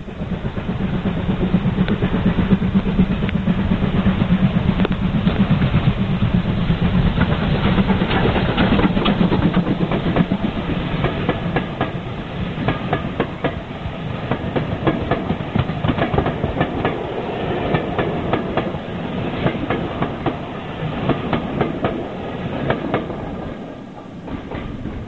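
Railway train passing close by, its wheels clicking steadily over the rail joints. A low hum is loudest in the first ten seconds, then the clatter of the coaches carries on.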